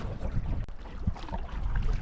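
Wind rumbling on the microphone while a canoe is paddled across a lake, with scattered small splashes and knocks from the paddle.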